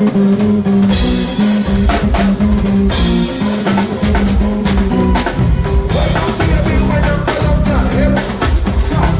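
Live band playing, with a drum kit and a steady bass line, during a sound check.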